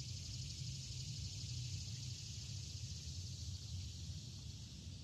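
Steady, unbroken high-pitched drone of a summer insect chorus in the woods, with a low rumble underneath.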